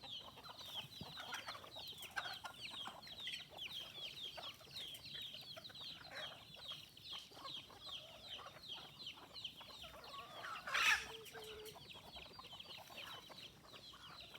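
Chickens clucking while they feed, over a fast, steady run of short, high, falling peeps. One louder squawk comes about eleven seconds in.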